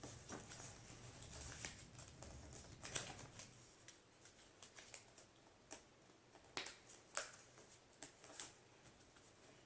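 Faint, scattered crackles and rustles of a sheet of paper being folded and creased by hand, a few sharper crinkles standing out.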